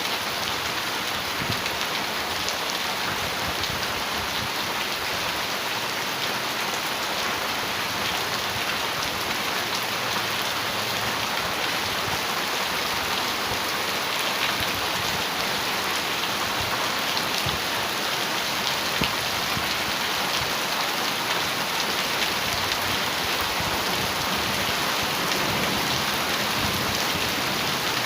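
Heavy rain falling steadily on a metal roof: a dense, even hiss with a fine patter of individual drops ticking on the sheet metal.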